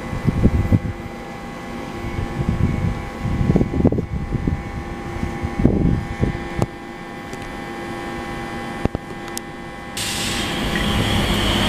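Class 345 electric train, with several steady whining tones from its electrics, and irregular low gusts of wind buffeting the microphone. About ten seconds in, a louder rushing noise starts and builds.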